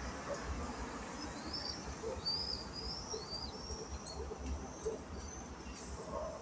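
Small birds chirping, with a string of short, high chirps that bend up and down, thickest from about a second and a half in; a low rumble runs underneath.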